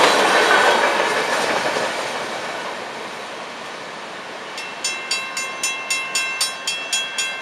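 FEC freight train's cars rolling past, the wheel noise fading as the end of the train moves away. About four and a half seconds in, the grade-crossing bell starts ringing, about three to four strikes a second, as the crossing gates go up.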